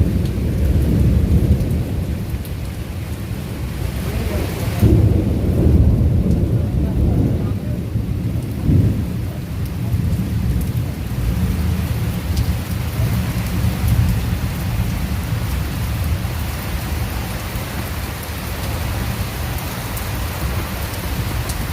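Heavy rain falling with thunder rumbling low and continuously, swelling louder a few times in the first ten seconds.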